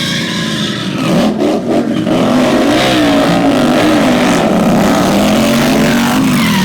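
Indian Scout Bobber V-twin motorcycle engine revving hard, its pitch rising and falling again and again.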